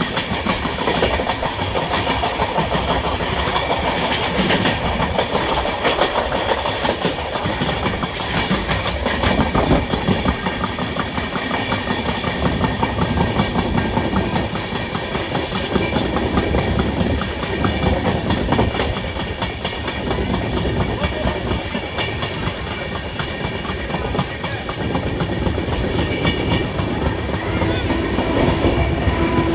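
Passenger train coach running along the track, its wheels rolling on the rails, heard close up from the open doorway of the moving coach.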